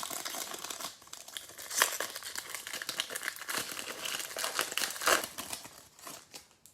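Trading-card pack wrapper crinkling and tearing as it is opened, with sharper rips about two seconds and five seconds in; it dies away near the end.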